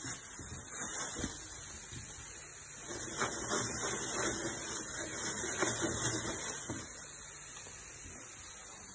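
Frying-pan zazharka of carrot and bacon frying with a steady hiss, while a spoon scrapes and knocks against the pan for a few seconds in the middle.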